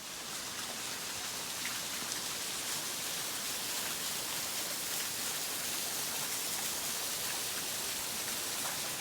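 Steady rushing hiss of flowing creek water, swollen by days of heavy rain.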